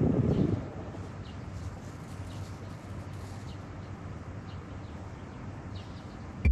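Wind buffeting the microphone for the first half second, then a steady outdoor hush with faint, short bird chirps scattered through it.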